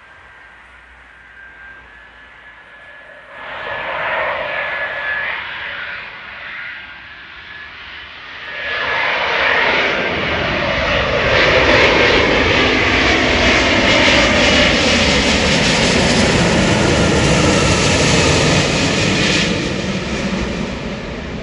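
Airbus A350's Rolls-Royce Trent XWB turbofan engines as the airliner comes in to land: a steady whine builds, then a loud jet rush swells about nine seconds in as it passes close by, with a falling pitch. It begins to fade near the end.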